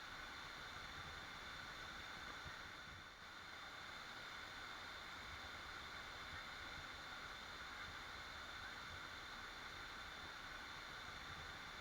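Waterfall: falling water rushing steadily and faintly, an even hiss with no breaks.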